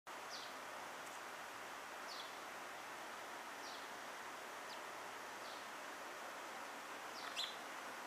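A small bird chirping: short, high, falling chirps every second or two, the loudest one near the end, over a steady background hiss.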